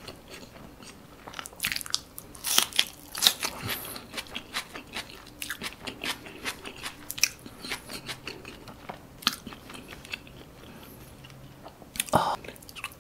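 Close-up mouth sounds of a person chewing food: crisp crunches and wet clicks, busiest a few seconds in, with a louder burst near the end.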